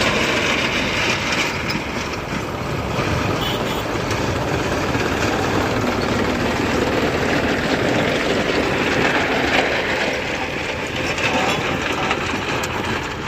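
Massey Ferguson 1035 tractor's diesel engine running steadily, with a dense, loud noise.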